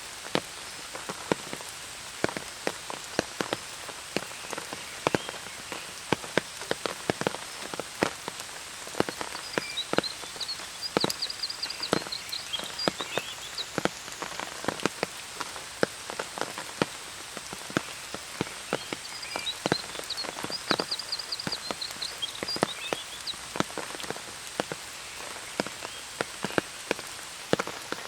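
Steady rain with many sharp, close drops tapping irregularly. A bird twitters briefly twice, about a third and two-thirds of the way through.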